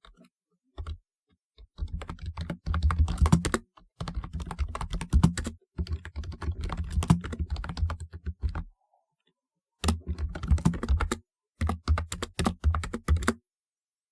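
Typing on a typewriter-style mechanical keyboard: quick runs of key clicks in several bursts, with a pause of about a second before the last two runs.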